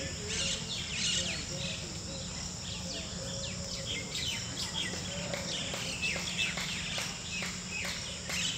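Birds chirping, many short high calls one after another, over a steady low hum.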